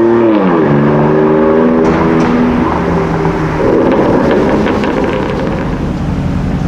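A car engine running hard: its pitch drops steeply just after the start, then holds steady. About three and a half seconds in, it turns to a rougher, noisier rumble.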